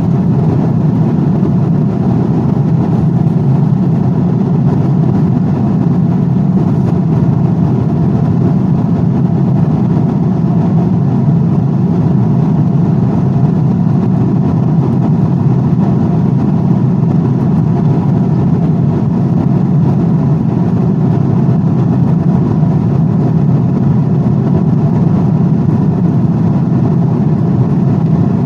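Steady aircraft noise: an even, unchanging low rush with most of its weight in the low and lower-middle range.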